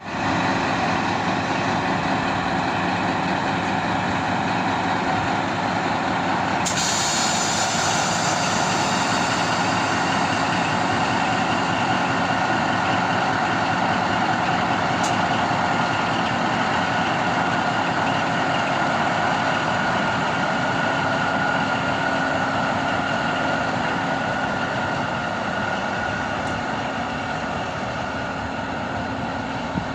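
V100 diesel-hydraulic locomotive's engine running steadily and loud. A hiss starts sharply about seven seconds in and fades over several seconds, and the engine sound eases slightly near the end.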